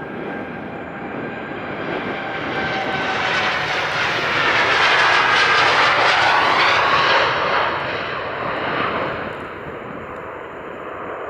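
Boeing 787-8 jet airliner passing on its take-off climb: the engine noise builds, peaks loudly about halfway through with a falling tone, then fades away.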